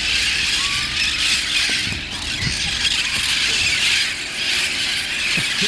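A large flock of feral parrots screeching and squawking without a break, many harsh calls overlapping into a continuous din.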